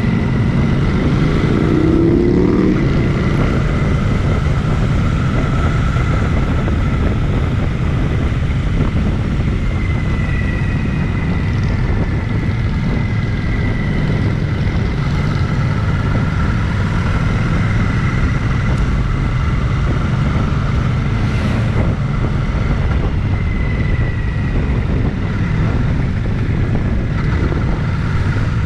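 Wind rushing over the microphone of a moving motorcycle, with the engine running underneath at a steady cruise. About two seconds in there is a brief glide in pitch.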